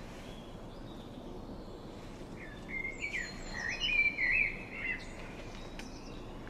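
A songbird sings a quick warbling phrase of rising and falling notes from about two and a half to five seconds in, over a steady outdoor background hiss.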